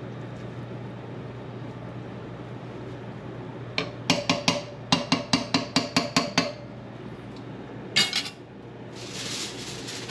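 Metal clinks on a cooking pot: a fast run of about a dozen sharp, ringing taps over two to three seconds, then one more a little later, over a steady low hum.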